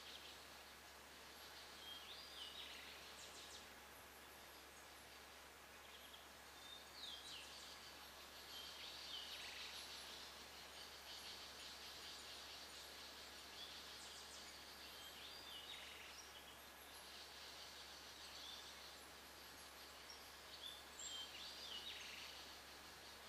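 Faint forest ambience: small clusters of short, high bird chirps several times over a steady faint high hiss.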